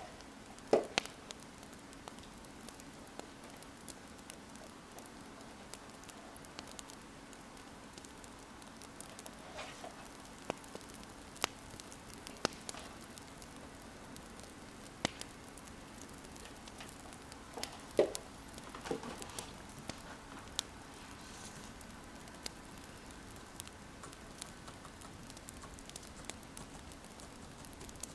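Wood fire crackling: irregular sharp pops and snaps over a steady soft hiss. A few times, brief scratchy strokes like a pen writing on paper.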